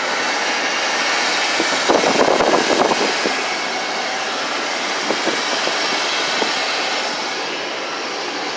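Ford 460 big-block V8 idling under the open hood, a loud steady mechanical running with a louder, uneven clattering stretch about two seconds in.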